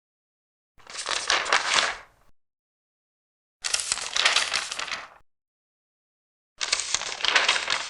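Large paper pages being turned three times. Each turn is a crisp rustle of about a second and a half, with silence between. The third is still going at the end.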